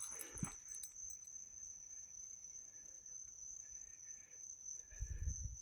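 Quiet night ambience: a steady high-pitched insect trill, faint animal calls in the middle, and a low thud about five seconds in.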